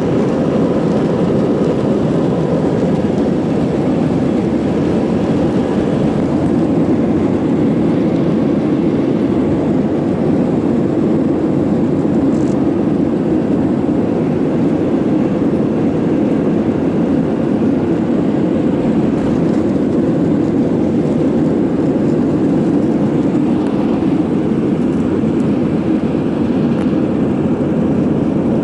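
Steady jet-engine and airflow noise inside the cabin of an Airbus A320, a loud, even low rumble with no breaks.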